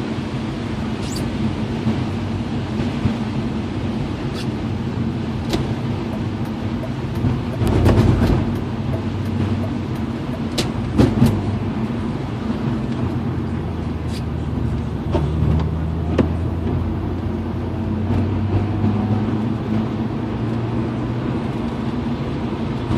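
BMW E36 M3's straight-six engine running steadily under way, over road noise, with scattered sharp ticks. It swells louder about eight seconds in and again around eleven seconds, and the engine note changes about fifteen seconds in.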